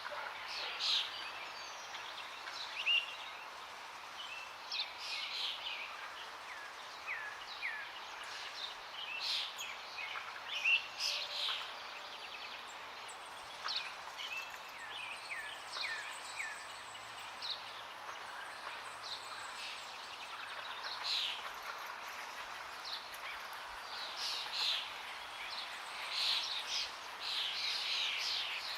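Several songbirds chirping and calling over a steady rush of flowing water, with short downward-sweeping notes scattered throughout and a denser burst of chirping near the end.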